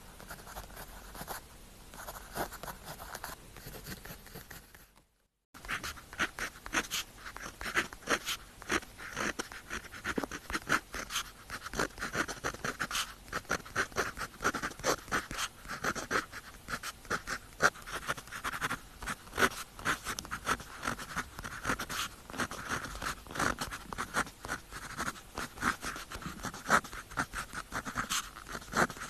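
Pen tip scratching across paper in quick, closely spaced writing strokes, with a brief cut to silence about five seconds in, after which the strokes come denser.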